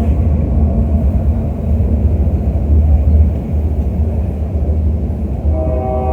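Diesel freight locomotive running past with a heavy, steady low rumble. Near the end a held chord of steady tones comes in over it.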